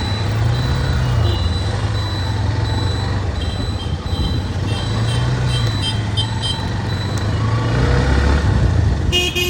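Road vehicle engine running with steady road noise, its hum rising and falling a few times. A run of short high beeps sounds in the middle, and a short horn toot comes near the end.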